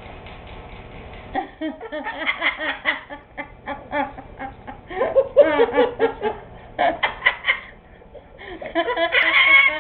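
Laughter in a run of short, wavering bursts that starts about a second and a half in, pauses briefly near the eight-second mark, then comes back loudest at the end.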